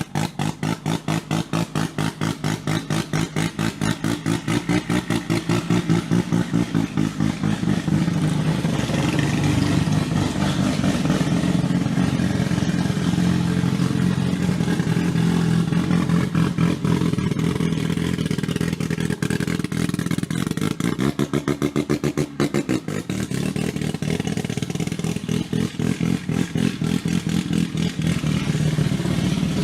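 Mazda rotary engine running with a choppy, rapidly pulsing idle, its revs raised and let fall several times.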